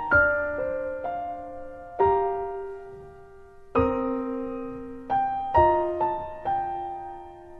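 Background music: a slow, gentle piano melody, with single notes and chords struck every second or two and left to fade.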